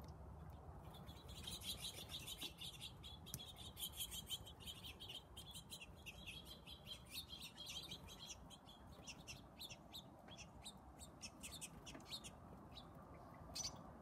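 Birds chirping, many quick high calls, densest in the first half and sparser later, with one louder chirp near the end.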